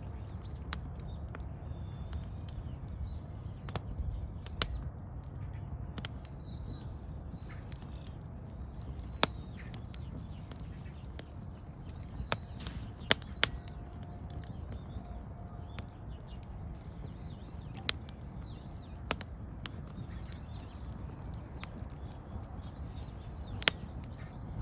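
Wood fire crackling, with scattered sharp pops at irregular intervals over a low steady rumble. Birds chirp faintly in the background.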